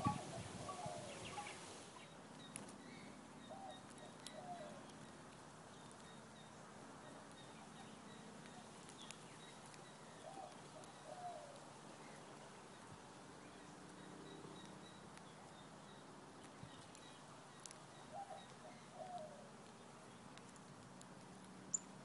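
Faint backyard birdsong: a bird's short, low, wavering call comes in little groups three times, several seconds apart, with scattered faint clicks over a quiet background.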